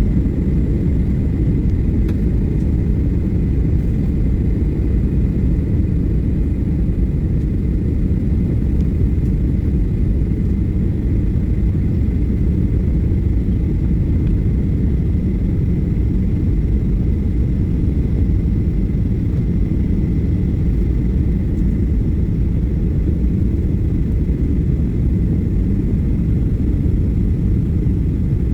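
Steady low rumble inside an airliner's cabin in flight: the jet engines and the rush of air along the fuselage, with a faint high whine over it.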